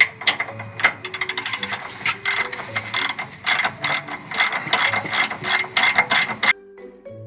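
Ratchet wrench clicking as the bolts on the stabilizer bar bushing bracket are run in and tightened: a quick run of fast clicks about a second in, then repeated strokes about two to three a second, stopping suddenly near the end.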